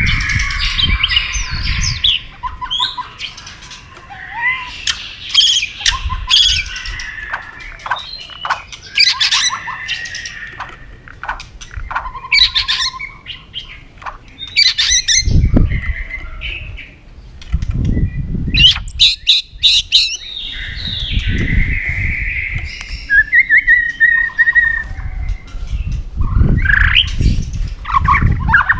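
White-rumped shama singing a varied, loud song of whistles, trills and sharp chirps. It is broken several times by bursts of low fluttering wing-flapping.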